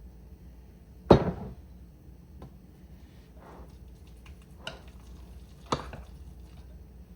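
Kitchen items being handled and set down on a countertop: one loud knock about a second in, then a few lighter clicks and knocks, over a faint low hum.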